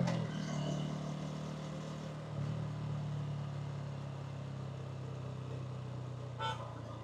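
Hanssom Bike Benet 125cc motorcycle engine idling steadily after coming off the throttle, with a slight rise in its note about two seconds in. A short high-pitched chirp sounds near the end.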